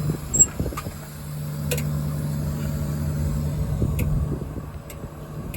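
Ford 6.7 Power Stroke V8 diesel idling with a steady low hum, with a few light clicks over it.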